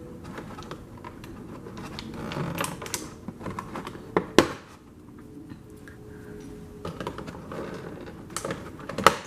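Small plastic toy pieces handled and set down, light clicking and rustling with two sharp clacks, one about four seconds in and one near the end.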